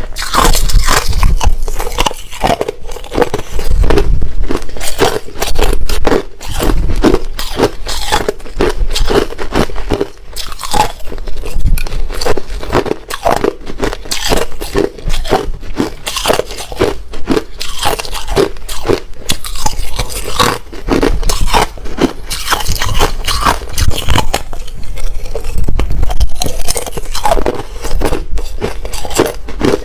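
Hard ice being bitten and chewed close to the microphone: a dense, unbroken run of loud crunches and cracks.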